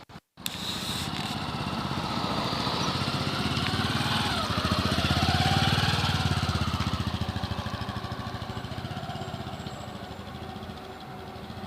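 Motorcycle engine running with a fast, even pulsing, growing louder to a peak about halfway through and then fading away.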